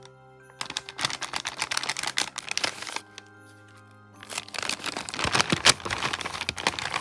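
Slime being squeezed and stretched by hand, giving a dense run of small clicks and pops in two stretches, the second starting about four seconds in, over steady background music.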